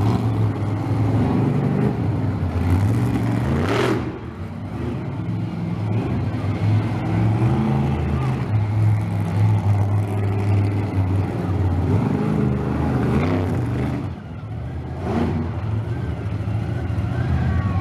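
Monster truck's big engine running and revving, its pitch rising and falling.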